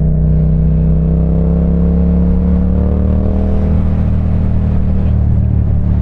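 Parallel-twin motorcycle engine running under way, its pitch climbing gently over the first few seconds and then holding steady.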